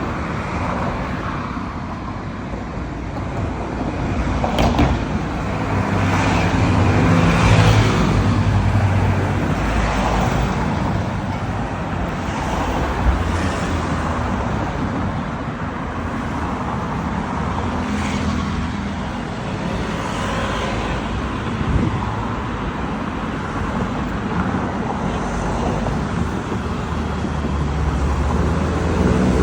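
Road traffic: a steady noise of vehicles, with engine hum swelling and fading as cars and other vehicles pass every few seconds.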